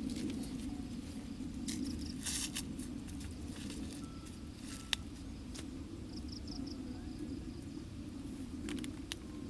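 An insect chirping in short pulsed trills, over a steady low rustle with a few sharp snaps and clicks.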